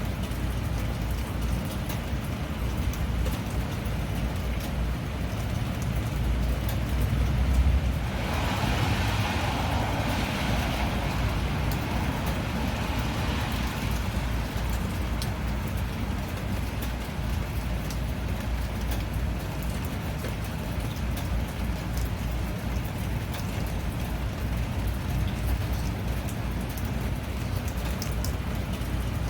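Steady rain falling, with fine pattering drops. About seven seconds in, a low rumble builds and gives way to a louder rushing hiss that fades over several seconds.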